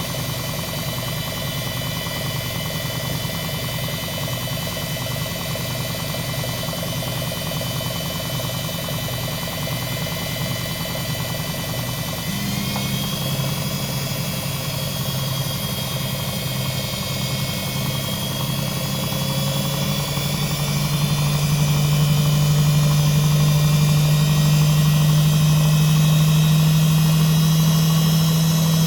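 Front-loader washing machine's motor, belt and drum running, with a low hum that pulses at first. About twelve seconds in, its pitch steps up into a steady hum with a rising whine, and it grows louder from about twenty seconds as the drum speeds up.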